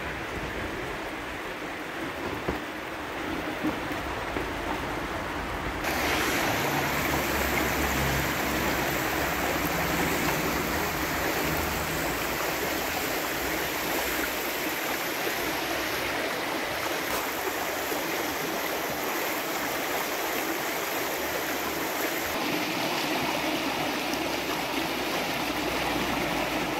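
Waterfall water rushing and splashing steadily; it becomes louder and more hissing about six seconds in.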